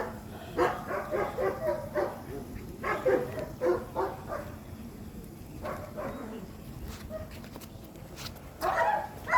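A young dog giving short barks and yips in several quick clusters, with quieter gaps between them.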